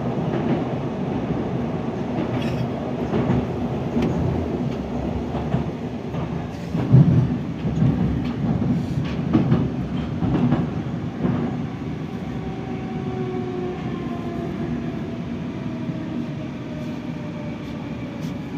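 Interior running noise of a moving 81-740.1 metro train in a tunnel: a steady rumble with wheel knocks and clicks over the rails. From about twelve seconds in, a faint electric whine falls slowly in pitch as the train starts to slow.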